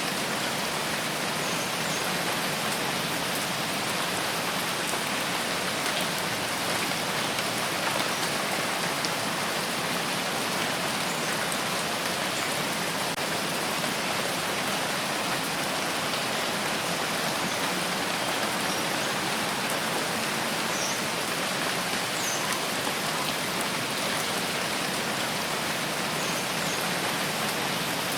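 Steady, heavy rainfall: an even hiss of rain with faint scattered drop ticks, unchanging throughout.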